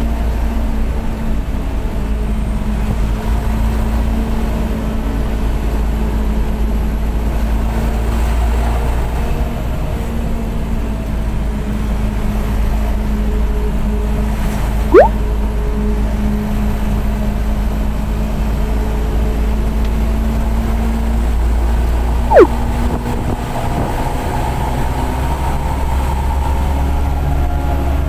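Steady low drone of a coach bus's engine and road noise while under way, heard from inside. Two brief, loud chirps cut through, one sweeping up about halfway through and one sweeping down about three-quarters of the way through.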